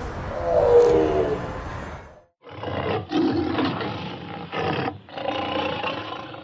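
Tiger roaring: one long roar fades out about two seconds in, then after a brief break comes a run of shorter roars.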